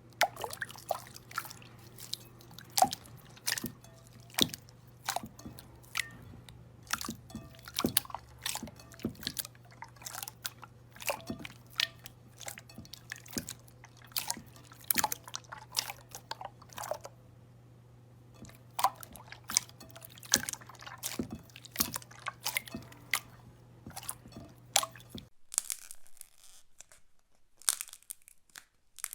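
Slime being squeezed and pressed, giving irregular sharp crackles and pops, often several a second, with a short lull about two-thirds of the way through.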